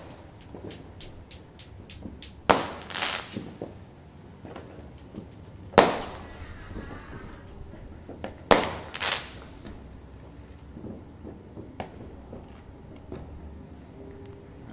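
Fireworks going off: about five loud bangs spaced a few seconds apart, some in quick pairs with a short crackle after, and small pops between. A cricket chirps steadily and high-pitched underneath.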